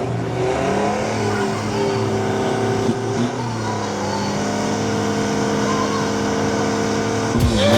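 Drag-racing car engines revving, then held at steady high revs, with a sudden dip in pitch and a rising climb near the end as the cars pull away.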